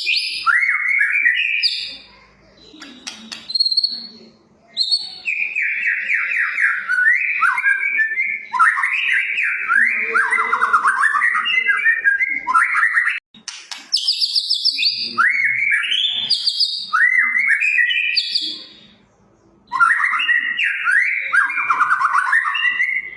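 White-rumped shama (murai batu) in full song: long, fast runs of rippling, whistled notes that sweep up and down, broken by a few short pauses. This is the vigorous 'gacor' song used as a training and provoking recording for captive shamas.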